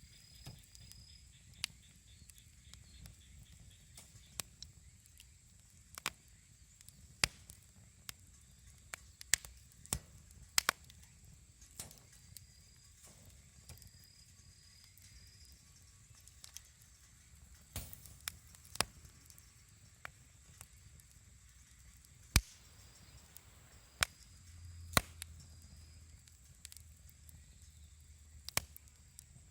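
Wood campfire crackling: sharp, irregular pops about once a second over a low rumble, with a faint steady high-pitched tone behind.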